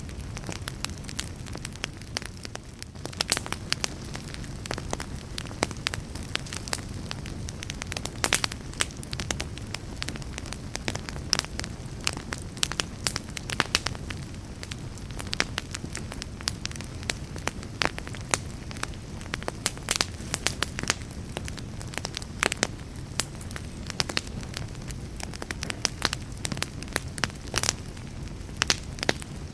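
Wood fire burning steadily: a low rumble under frequent, irregular sharp pops and crackles.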